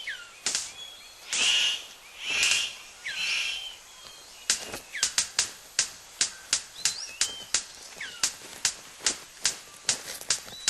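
Male superb bird of paradise in courtship display: a few soft swishing sounds in the first few seconds, then a fast run of sharp clicks, about three a second, from about four and a half seconds in. Other forest birds chirp in the background.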